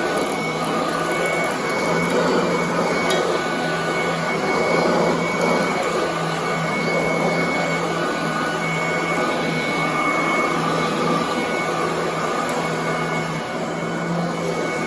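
Royal commercial upright vacuum cleaner running steadily over carpet: a continuous motor hum with a steady high whine over the rush of air.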